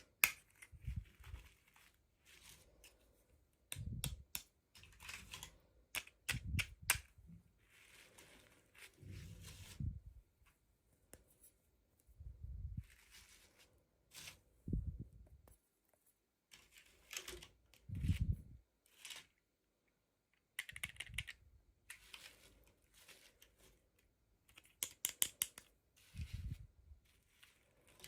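Hands unboxing small toys: irregular clusters of sharp clicks and taps, packaging tearing and rustling, and soft low thumps as pieces are set down.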